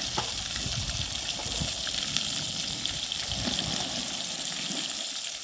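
Hot oil sizzling steadily as pieces of seasoned bird fry in a pan over an open fire.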